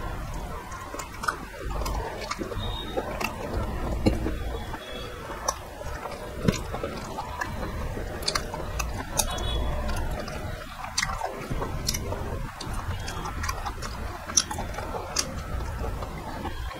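A man chewing and smacking his lips close to the microphone while eating chicken and rice by hand. Frequent irregular wet clicks and smacks run throughout.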